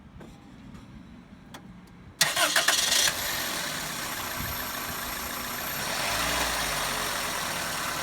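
2001 Toyota Corolla's 1ZZ-FE 1.8-litre four-cylinder engine started: the starter cranks briefly about two seconds in, the engine catches within a second and settles into a steady idle.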